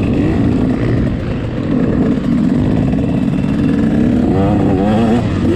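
Dirt bike engine running loudly on a motocross track, its revs rising and falling in quick wavers near the end.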